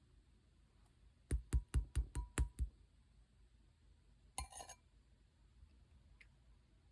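About seven quick, sharp taps on a hard container, roughly five a second, then a short crackling rustle about four and a half seconds in.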